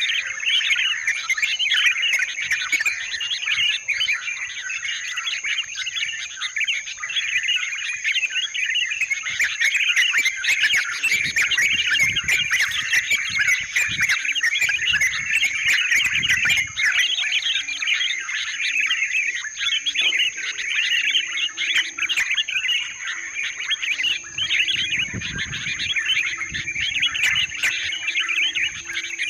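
Yellow-vented bulbuls (trucukan) chattering and calling without pause, several calls overlapping into a dense babble, with a steady thin high tone underneath.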